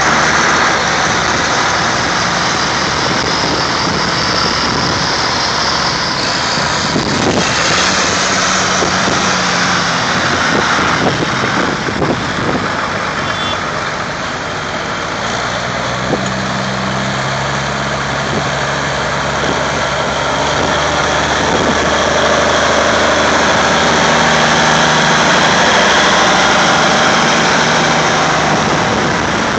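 Several vintage tractor engines running at different speeds, their hums shifting in pitch as the tractors move off, over a steady hiss.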